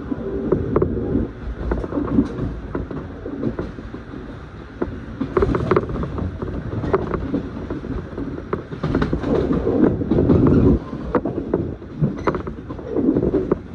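Running noise of a train heard from inside the carriage: a steady wheel-on-rail rumble with many irregular clicks and knocks from the track and the car body. It swells loudest about nine to eleven seconds in.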